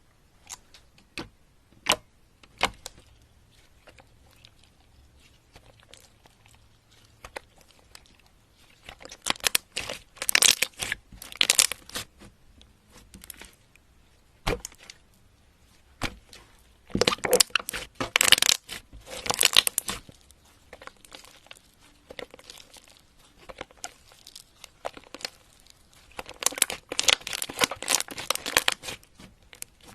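Slime being squeezed and worked by hand, giving single sharp clicks and three longer runs of rapid crackling pops.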